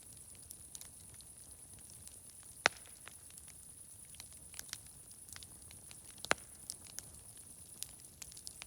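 Wood fire crackling: small irregular clicks and snaps, with two much louder pops, one about a third of the way in and one about two-thirds in, over a steady high hiss.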